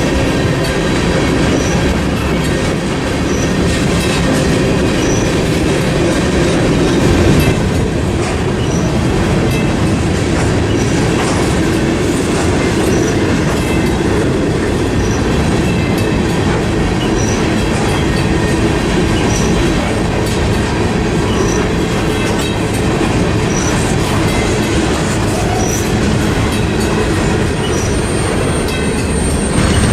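Freight train cars rolling steadily past, wheels clacking over the rail joints, with a faint high tick about once a second.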